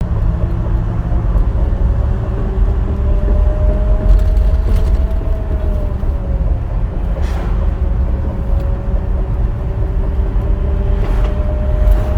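Rear axle differential of a vehicle with an 8¾ axle whining while driving, over steady road rumble; the whine's pitch drifts slightly up and down. The noise is present after the pinion nut was tightened to 250 lb-ft.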